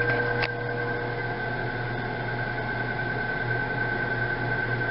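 Microwave oven running a heating cycle: a steady hum with fan noise and a faint high tone, and a brief click about half a second in.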